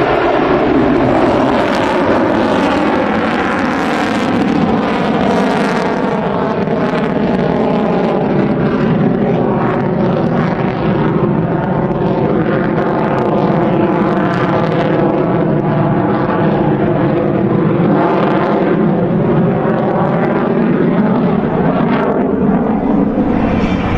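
F-35B fighter jet engine running with a loud, steady roar for the whole stretch, with a whooshing tone that slowly sweeps down and up in pitch.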